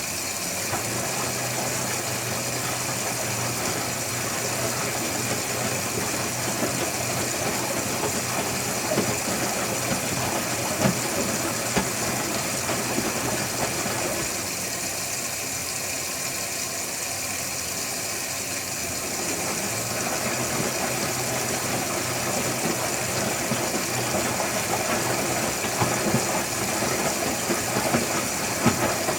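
Electrolux Wascator W355H commercial washing machine running, its motor giving a steady hum over a wash of noise with scattered light knocks. The hum stops for a few seconds around the middle, then starts again.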